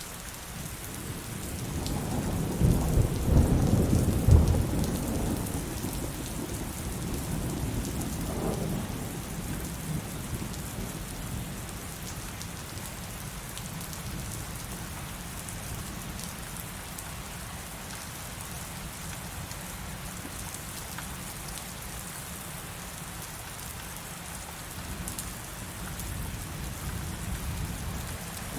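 Heavy rain falling steadily, with a loud clap of rolling thunder about two seconds in that rumbles low and fades over a few seconds. A second, weaker rumble comes about eight seconds in.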